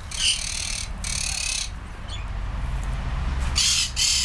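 Lorikeet giving harsh, raspy screeches in three bursts, the last one near the end.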